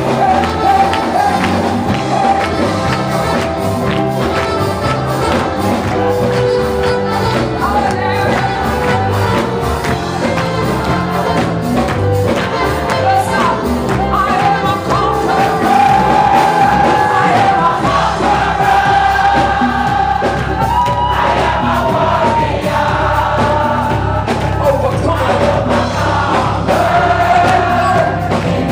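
Live gospel music with a choir and congregation singing over a driving beat.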